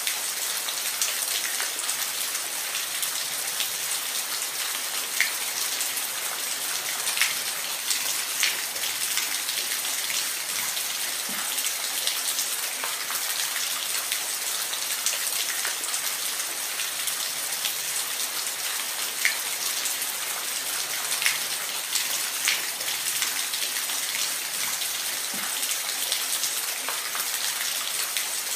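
Steady rain falling, a dense hiss with scattered louder individual drops striking a surface.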